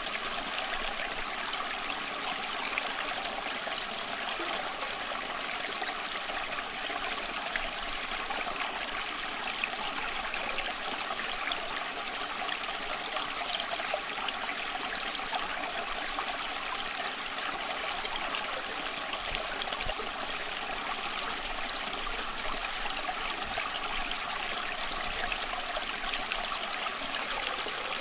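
Small stream running steadily over rocks, a continuous rushing with light trickling and splashing.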